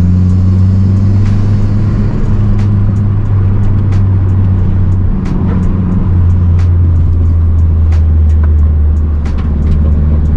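Mazdaspeed 3's turbocharged 2.3-litre four-cylinder, fitted with an aftermarket intake, cat-back exhaust and race pipe, running at a steady engine speed while driving. It gives a constant low drone, with frequent short sharp ticks scattered through it.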